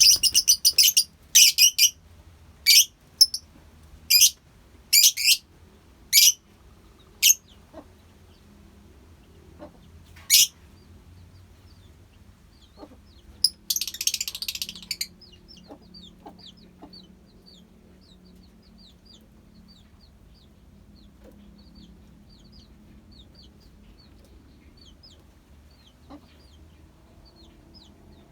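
Lovebirds in a colony calling: loud, harsh screeches, about one a second for the first seven seconds, another a few seconds later and a longer burst near the middle, then only faint, quick chirping.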